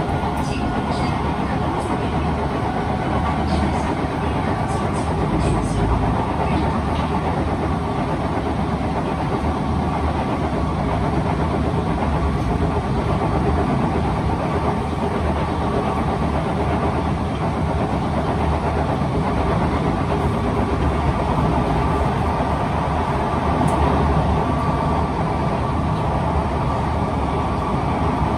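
Running noise inside a Kawasaki C151 train car on the move: steady rumble of the motors and wheels on the rail, from a car that the uploader says has severe wheel flats.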